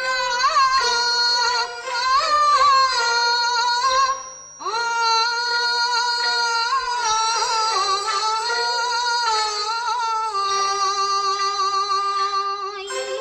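A female voice sings a Teochew opera aria over instrumental accompaniment. A short phrase breaks off about four seconds in, then a long drawn-out phrase follows with slow wavering in pitch.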